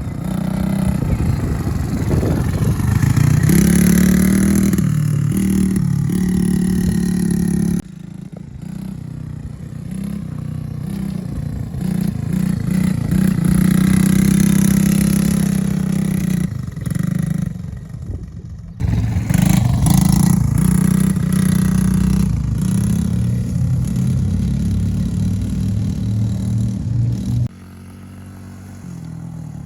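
Mini quad's small engine running and revving, its pitch rising and falling as it accelerates and eases off. The sound changes abruptly three times: it drops about 8 seconds in, jumps back up near 19 seconds, and drops again near the end.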